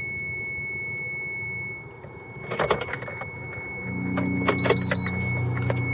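Keys jangling and clicking in a car, in two short rattles, over a steady thin high-pitched tone. A low steady hum comes in about four seconds in.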